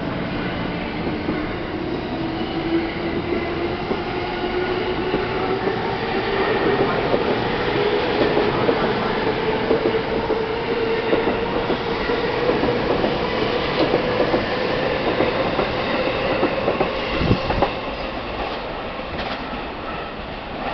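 E231-1000 and E233-3000 series electric commuter train pulling out and accelerating: the motor whine climbs steadily in pitch, and the wheels click over the rail joints. A single low thump comes about 17 seconds in, and the sound fades near the end as the train moves away.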